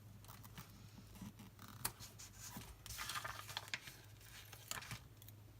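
Scissors snipping through a sticker sheet: scattered quiet snips, with a denser run of cutting and paper rustle about three seconds in.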